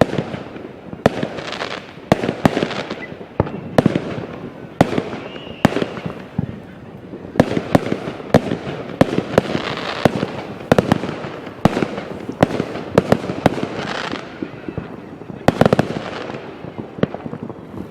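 Fireworks going off in quick succession: many sharp bangs, each trailing off in an echo, over steady crackling, with the loudest bang near the end.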